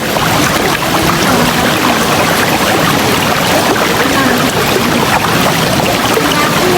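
River water rushing steadily over rocks, a dense even rush with some faint bubbling.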